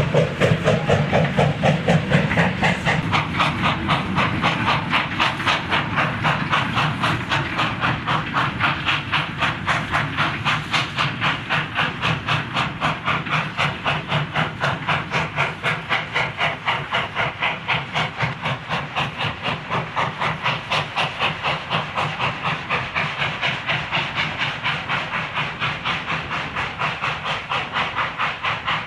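Steam tank locomotive working, its exhaust chuffing in a steady, even rhythm over a hiss of steam, a little louder in the first few seconds.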